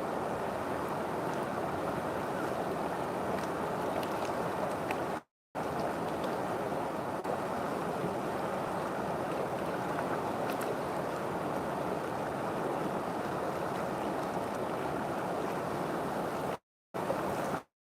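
River water flowing steadily in a continuous rush, cutting out abruptly to dead silence for a moment about five seconds in and again near the end.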